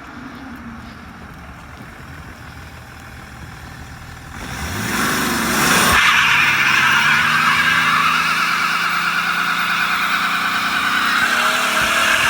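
Straight-piped BMW E39 530d's straight-six turbodiesel, with no muffler, running quietly, then revved hard about four seconds in, its pitch climbing. It then holds a loud, steady drone with a strong hiss over it.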